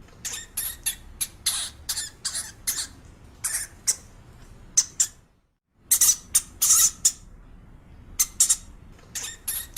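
Rapid series of short, sharp, high-pitched squeaks from a small animal, several a second. They break off for about half a second midway, then resume.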